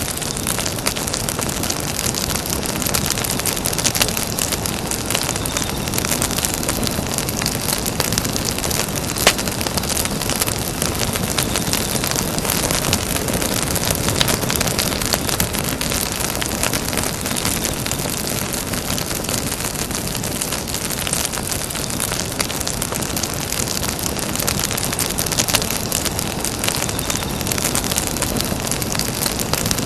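Campfire burning: a steady hiss full of small crackles and pops, with a sharper pop about nine seconds in.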